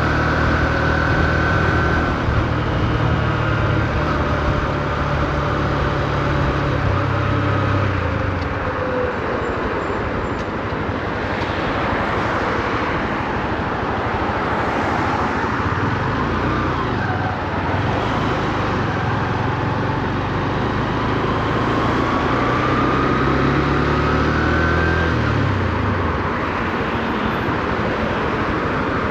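Honda CB125F's single-cylinder four-stroke engine under way in town, heard from the rider's position with wind and road rush. The engine note pulls, fades under the wind rush for several seconds in the middle, then comes back with its pitch stepping up through the gears before easing off near the end, kept at low revs while the new engine is run in.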